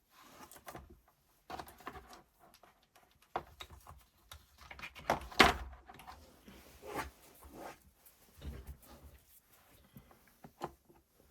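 Small parts of a cordless drill being handled and worked on a bench: irregular clicks, knocks and rattles, with one sharp knock about halfway through.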